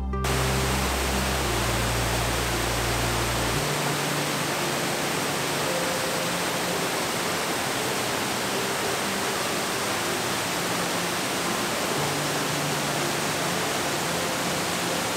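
Steady rushing roar of a large waterfall, with soft background music underneath. The music's low bass notes drop away a few seconds in.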